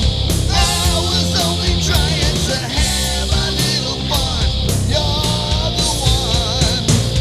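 Hard rock song with distorted electric guitars, bass and drums, and a male lead vocal singing over them.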